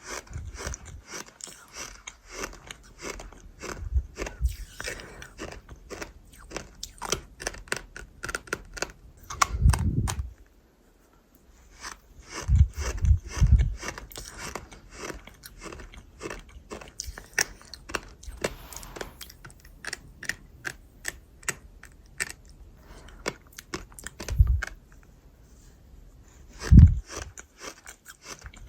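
Close-miked chewing and crunching of gritty, crunchy chunks: dense rapid crackles, with a few heavier bites. There is a short pause about ten seconds in.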